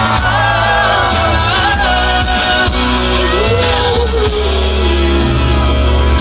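A female pop singer's amplified live vocal holding and bending long notes of a ballad over loud band backing with a heavy bass.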